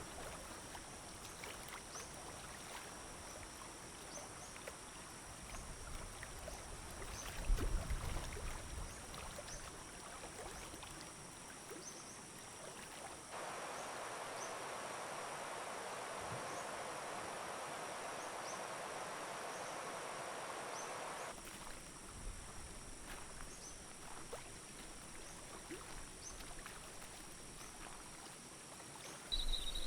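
Faint rainforest ambience: a steady hiss with a high insect chirp repeating about once a second. There is a low thump about seven seconds in, and a stretch of louder, even rushing noise from about 13 to 21 seconds.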